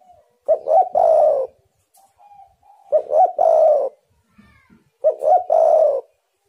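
Spotted dove (tekukur) cooing: three loud phrases about two and a half seconds apart, each two short coos followed by a longer note. Fainter coos sound between the phrases.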